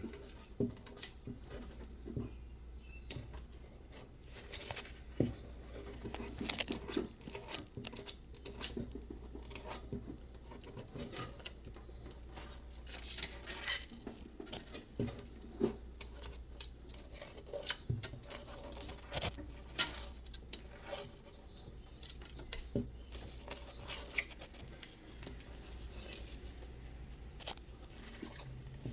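A live feeder mouse scrambling around a rattlesnake enclosure: scattered light clicks, taps and scratches at irregular intervals, over a low steady hum.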